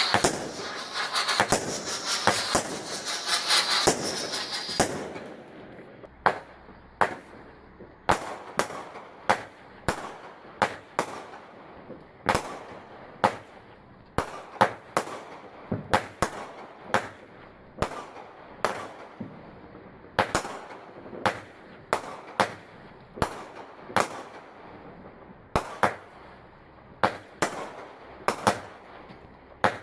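Fireworks going off: a dense crackling hiss for about the first five seconds, then a long run of separate sharp bangs, one or two a second.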